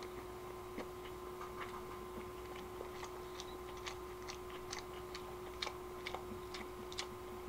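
A person chewing a mouthful of bulgogi burger with the mouth closed: faint, irregular small wet clicks of the mouth, over a steady low electrical hum.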